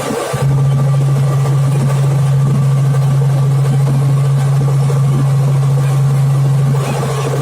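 Helicopter running in flight: a steady low drone that jumps louder about half a second in.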